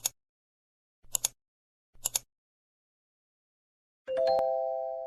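Three short hissy swishes about a second apart, then a bell-like chime with a click about four seconds in that rings on and fades slowly: intro sound effects.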